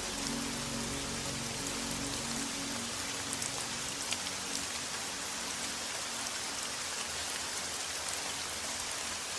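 Steady rain falling, an even hiss with a few distinct drops standing out about three to four seconds in. Soft low sustained music tones fade away within the first three seconds.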